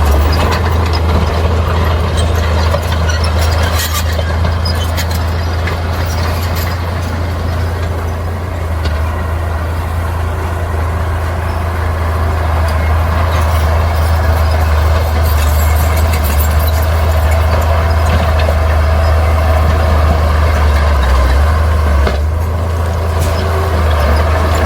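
Bulldozer's diesel engine running steadily under load with a strong low drone, with scattered clanks and rattles over it.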